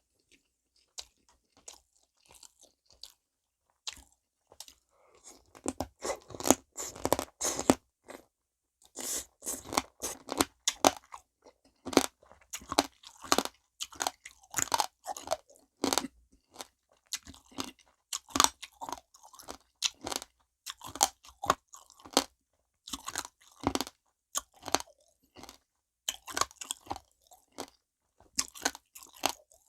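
Close-miked crunching and chewing of soy-sauce marinated stone crab, the shells cracking between the teeth. It starts about five seconds in and goes on in quick runs of crackles with short pauses.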